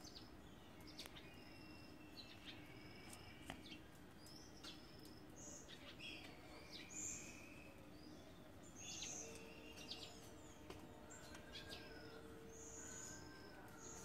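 Faint chorus of small birds: many short chirps and whistled notes overlapping. A steady low hum joins about two-thirds of the way through.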